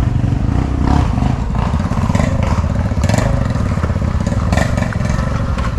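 Off-road dirt bike engine running under way, with knocks and clatter from the bike over rough ground, the sharpest about three and four and a half seconds in.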